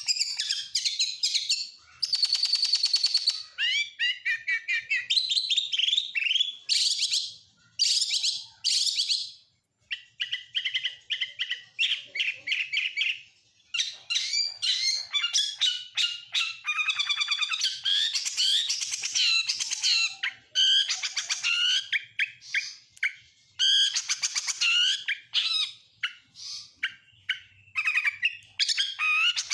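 Oriental magpie-robin singing a long, varied song of clear whistles, rapid trills and chattering phrases, with mimicked phrases of other birds such as lovebird, canary and prinia. The phrases run almost without a break, with only short pauses.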